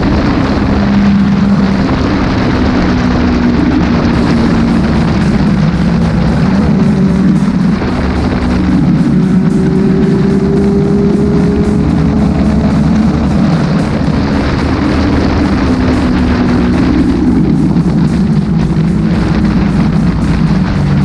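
Motorcycle engine running under way, its pitch slowly rising and falling, over a steady rush of wind, with music playing at the same time.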